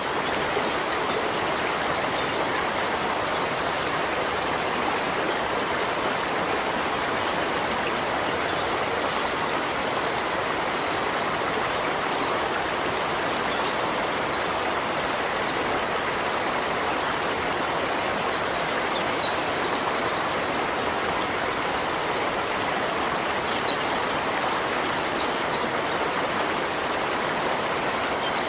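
River water flowing: a steady, unbroken rush of moving water that stays even throughout.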